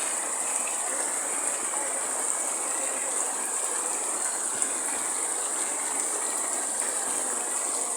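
Steady heavy rain, an even continuous hiss without thunder.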